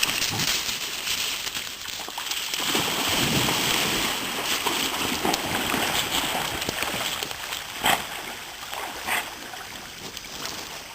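Water splashing and sloshing as dogs swim in a creek, over the steady rush of the flowing stream. Two short, sharp sounds come about a second apart near the end.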